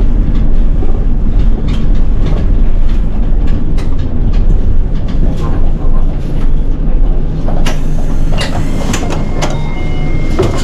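City bus running with a steady low engine and road rumble and light rattling from the cabin. About eight seconds in, a hiss and clatter starts, then a thin steady high tone, as the bus comes to a stop before its door opens.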